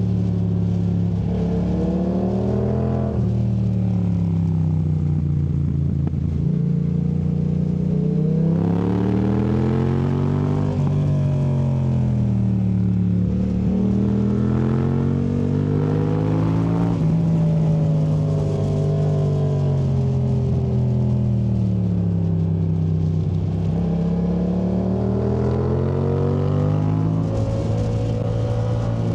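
2019 Yamaha MT-07's parallel-twin engine through a Yoshimura AT2 Race exhaust, alternately accelerating and easing off. The engine note climbs and falls back in pitch every few seconds.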